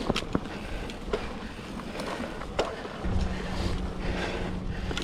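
2007 Cannondale Rush mountain bike rolling over a dirt trail: tyre rumble with scattered clicks and rattles from the bike. About three seconds in the rumble gets louder, with a steady low hum and wind on the microphone.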